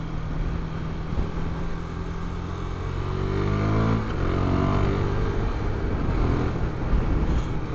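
Husqvarna Svartpilen 401's single-cylinder engine running on the road, rising in pitch as it accelerates about three seconds in, then holding steady at the higher revs.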